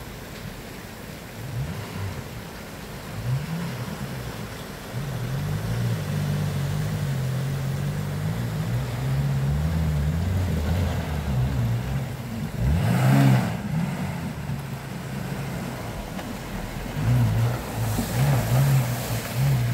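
Maruti Gypsy's engine revving hard in second gear, low range, rising and falling with the throttle as it pushes through a deep stream crossing and climbs out over rocks. A brief loud burst of noise about thirteen seconds in.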